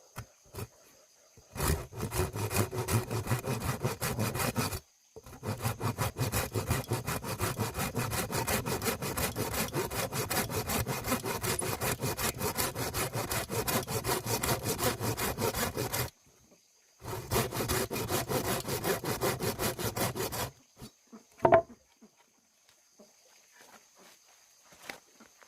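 Wood being sawn in quick, even, rhythmic strokes, in three long runs that stop abruptly. A single sharp knock follows near the end.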